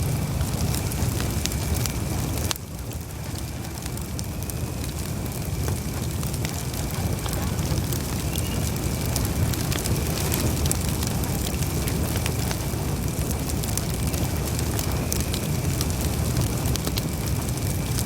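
Campfire burning: a steady low rush of flames with frequent sharp crackles and pops from the burning wood, and a faint thin high whistle running underneath. The fire dips in loudness for a moment about two and a half seconds in, then builds back.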